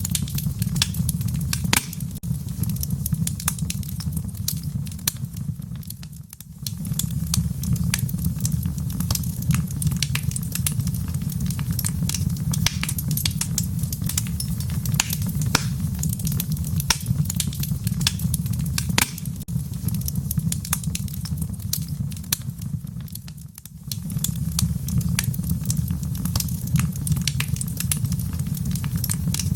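Wood fire in a fireplace crackling: a steady low rumble of the flames with frequent, irregular sharp pops and snaps. Twice the sound dips for about a second.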